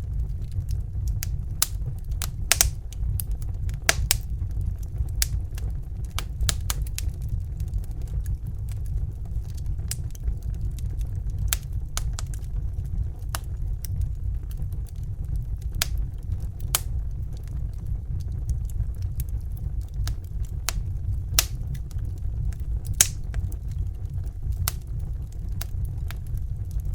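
Crackling fire: irregular sharp snaps and pops over a steady low rumble, with a few louder pops scattered through.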